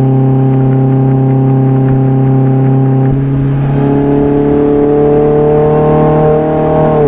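Mazda Roadster's inline-four engine through an HKS aftermarket muffler, running steadily at cruise. About three seconds in the note thickens, then climbs slowly under light throttle.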